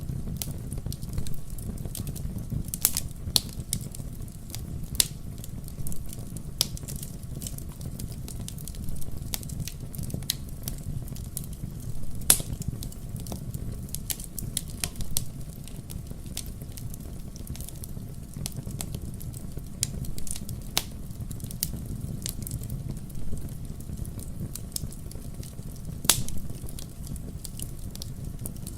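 Wood fire burning in a fireplace: a steady low rumble of the flames with irregular sharp crackles and pops, the loudest pops about twelve seconds in and near the end.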